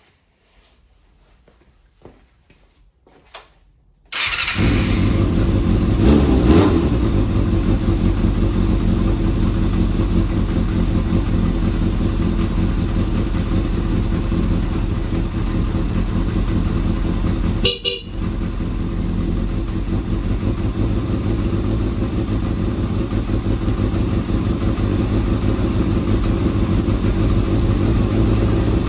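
Kawasaki Balius 250 cc inline-four engine starting about four seconds in after a few faint clicks, swelling briefly just after it catches, then idling steadily, with a short break in the sound about eighteen seconds in.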